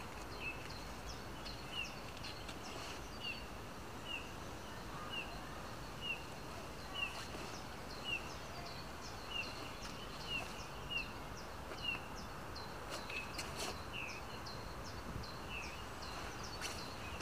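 Woodland birdsong: a small bird repeating a short, downward-sliding chirp about once a second, with quicker, higher chirps from another bird above it, over a faint outdoor hiss. A few soft clicks sound near the end.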